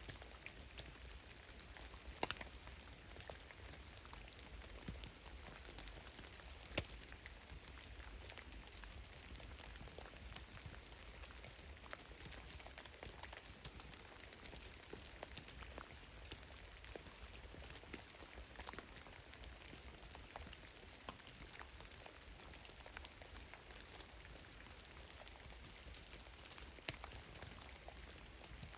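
Meltwater from heavy melting snow dripping from the trees: many scattered drops ticking irregularly, a few of them louder, over a faint steady hiss and a low rumble.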